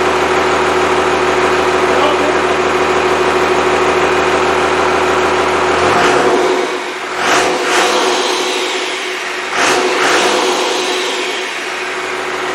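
Freshly rebuilt Cummins 5.9L 12-valve diesel running steadily, then revved up and let back down twice, about six and nine and a half seconds in.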